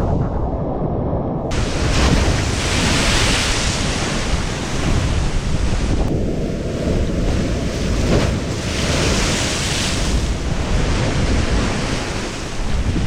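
Hurricane-force wind buffeting the microphone with a heavy low rumble, joined about a second and a half in by a loud rushing hiss of wind and storm-blown water that eases briefly midway, then returns.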